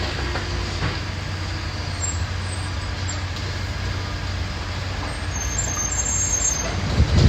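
Heavy diesel engine running steadily at a low hum, over a wash of outdoor machine noise, with a few louder low thumps near the end.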